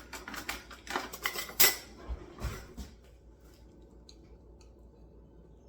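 Cutlery clinking and scraping against a dish for about three seconds, the loudest knock about a second and a half in, as a serving of freshly baked casserole is scooped out to taste; then a few faint clicks.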